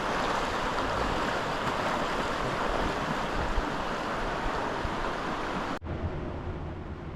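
Steady rushing noise that cuts off abruptly almost six seconds in, giving way to a quieter low hum.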